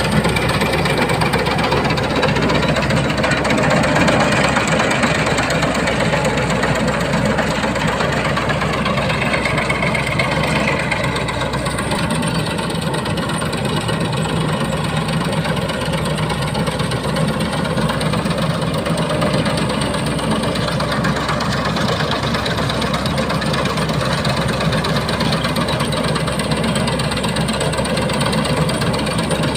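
Engine of a rice combine harvester running steadily as it harvests paddy.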